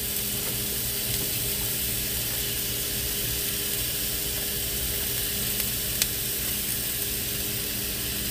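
Food frying in a pan, a steady sizzle, with a steady low hum underneath and a single small click about six seconds in.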